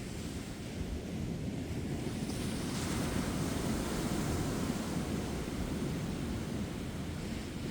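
Ocean surf breaking on a beach, a steady rushing wash that swells about midway and eases toward the end, with wind rumbling on the microphone.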